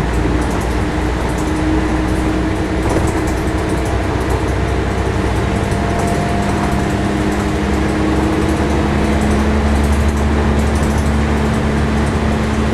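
Scania L113-CRB bus's 11-litre six-cylinder diesel engine running steadily under way: a continuous low drone with a faint held whine and light rattling.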